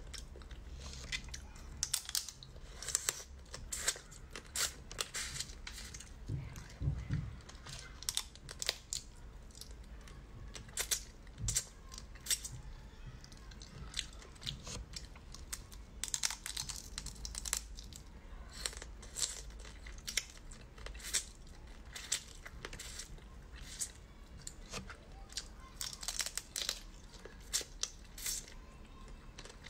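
Close-miked chewing and crunching of cooked crab: irregular sharp crackles and clicks as the meat and bits of shell are bitten and chewed.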